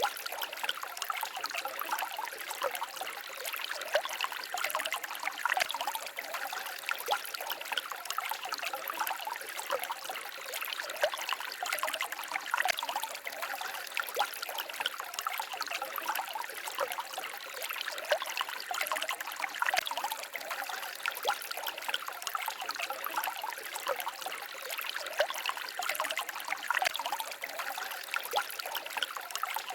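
A small forest stream babbling and trickling: a steady, light splashing with no deep rumble.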